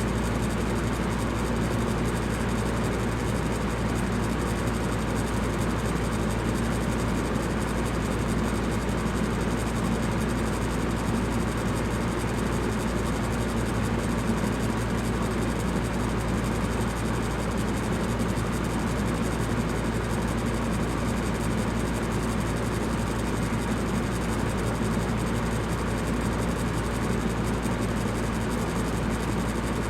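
Fan running steadily: an even rush of air over a low hum, with no change in pitch or level.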